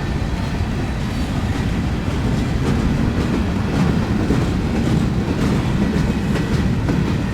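Freight train cars rolling past with a steady rumble. From a few seconds in, regular clicks of the wheels over rail joints join the rumble.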